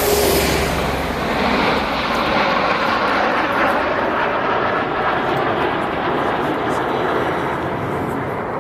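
Aircraft flying past in a loud, noisy roar. Its high hiss is strongest at the start and falls away over the first few seconds as it passes, and the roar slowly eases as the aircraft moves off.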